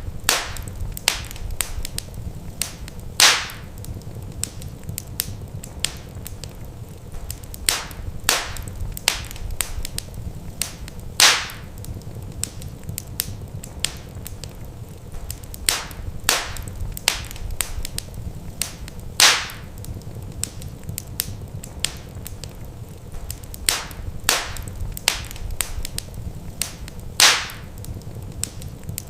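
Wood fire crackling in a fireplace: irregular sharp snaps and pops over a steady low rumble. A louder pop comes about every eight seconds, because the same stretch of crackling repeats.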